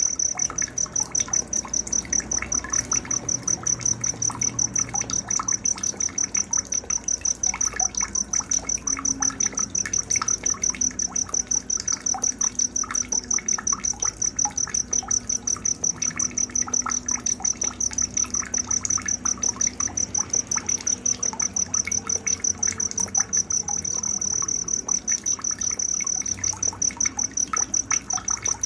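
Night insect, cricket-like, chirping in a steady, even high-pitched pulse, with faint scattered bird chirps beneath it.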